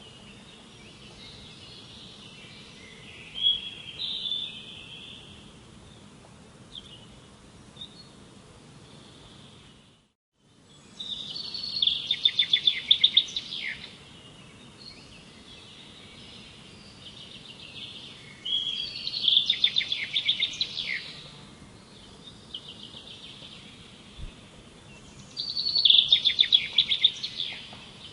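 A songbird singing loud phrases of rapid trilled notes, each about two to three seconds long and ending in a quick downward sweep, repeated about every seven seconds over a steady background hiss. The sound drops out completely for about half a second near the ten-second mark.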